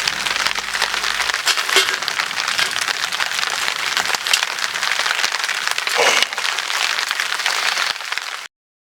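Dense, steady patter of rain with sharp crackles from a wood fire burning in a Solo Stove Titan fire pit. Background music fades out in the first second and a half, and everything cuts off abruptly near the end.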